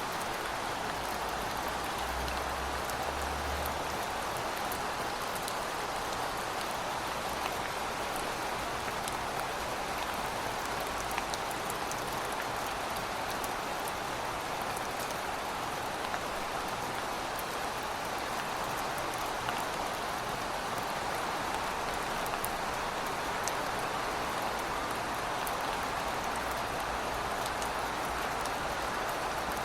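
Heavy rain falling steadily: a dense, even hiss with scattered individual drop ticks and a faint low rumble underneath.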